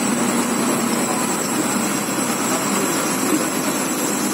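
Steady noise of heavy rain, with a bus engine running close by.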